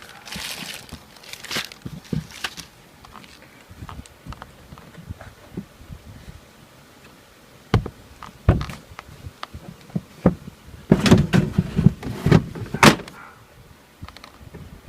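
Scattered knocks and thunks of the Coleman Mach 3 rooftop air conditioner's plastic top cover being handled and fitted back on, with a burst of heavier clatter near the end.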